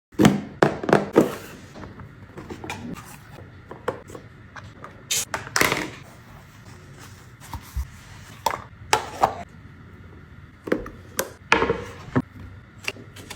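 Irregular sharp clicks, knocks and clatter of hard plastic toddler kitchen gadgets (a grape slicer and snack spinner) being handled and pressed, loudest in a quick run at the start and in small clusters later.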